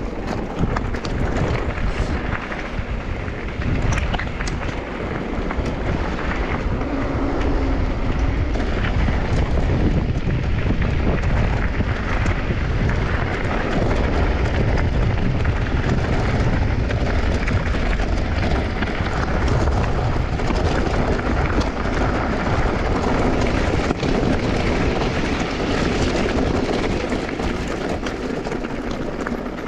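Mountain bike ridden fast down a bike-park trail: wind buffeting the microphone, tyres rolling over the dirt, and the bike rattling and knocking over bumps.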